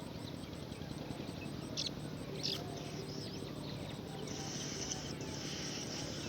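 Outdoor ambience over a steady hiss, with a couple of short high chirps around two seconds in. A steady high-pitched insect trill sets in about four seconds in.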